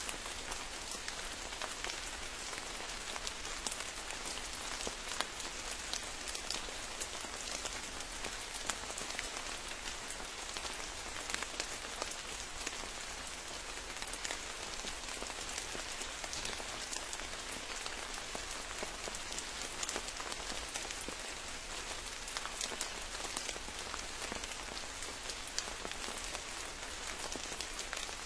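Steady rain falling, with many individual drops heard as sharp ticks over an even hiss.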